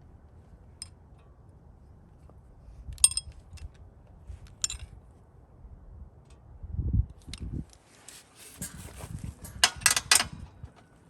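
Intermittent light metallic clinks and taps, with a cluster of sharper clinks and some low thumps near the end.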